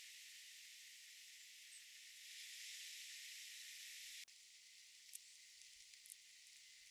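Faint, steady high-pitched hiss of background noise. It drops suddenly to a quieter hiss about four seconds in, with a few faint ticks after that.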